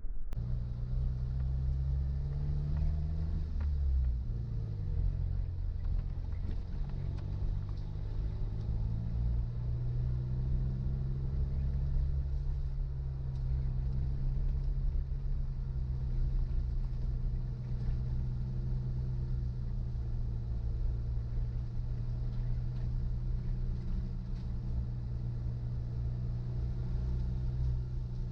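Suzuki Jimny engine running under way over a low rumble. Its pitch dips and climbs again a few seconds in, then holds steady.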